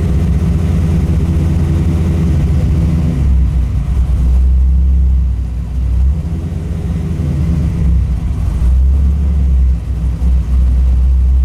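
1998 Camaro's 5.7-litre LS1 V8, fitted with an aftermarket cam, running steadily. Its note shifts about three seconds in and again near the end.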